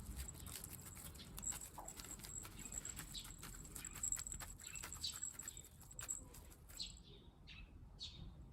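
Small birds chirping faintly: a few short, high, falling chirps, coming more often near the end, among light scattered clicks.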